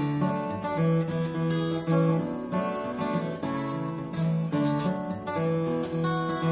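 Guild D40 Bluegrass acoustic guitar strummed in an instrumental break, a steady rhythm of chords with ringing bass notes.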